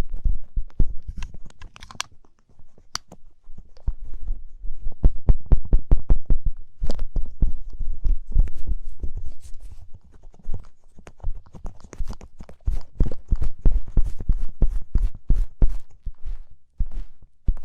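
Glowing ear pick scraping and scratching in an ear for ASMR ear cleaning: a dense, irregular run of crackling clicks over low thumps.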